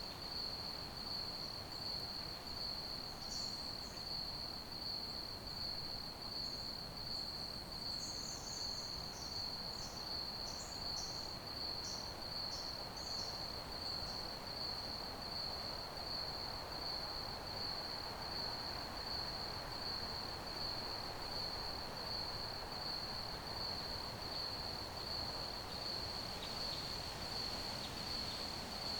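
Crickets chirping in one steady, unbroken high trill over a low background hiss. A scatter of short, higher chirps joins in during the first half.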